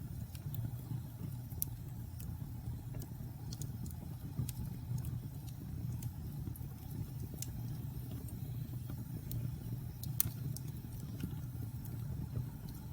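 Logs burning in a fireplace: a steady low rumble of flames with scattered sharp crackles and pops, a louder pop about two seconds in and another near the end.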